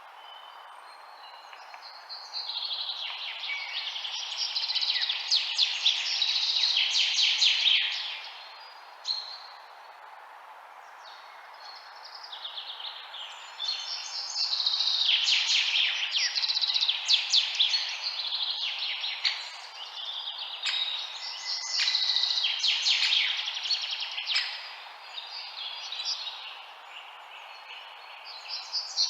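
Songbirds chirping and twittering rapidly in overlapping bouts that swell and fade, over a steady background noise.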